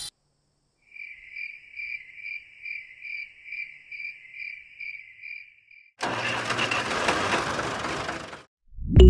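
Insect-like chirping in a high pulsing tone, about two pulses a second for five seconds, then a rough engine noise from the mini tractor for about two and a half seconds. Music comes in at the very end.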